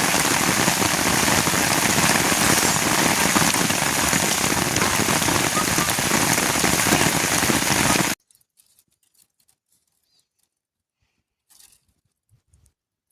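Rain falling steadily as a dense, even hiss. It cuts off abruptly about eight seconds in, leaving near silence with a few faint ticks.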